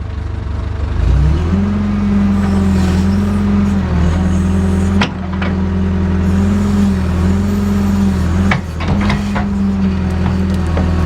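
JCB backhoe's diesel engine revving up about a second in and then running steadily under load, its note dipping briefly a few times. Sharp knocks come near the middle and again toward the end.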